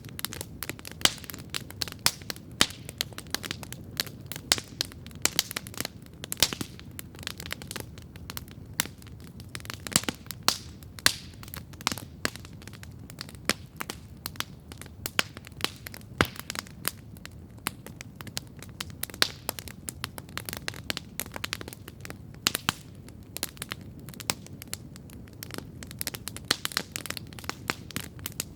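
Wood campfire crackling steadily: dense, irregular sharp pops and snaps over a soft low roar of the flames.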